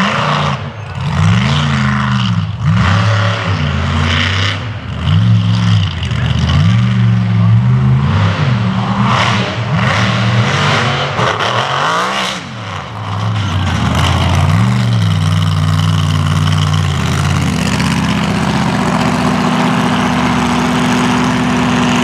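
Mega mud truck's engine revving hard up and down over and over, then holding at a steady high pitch for the last several seconds.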